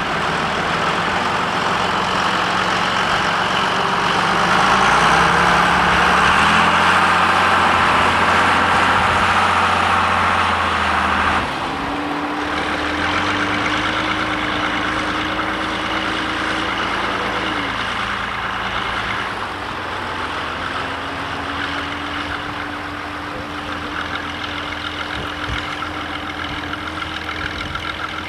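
John Deere 3350 tractor's six-cylinder turbo diesel engine working under load while ploughing. Its note shifts a few times, with a sudden drop in loudness and a change of pitch about eleven seconds in.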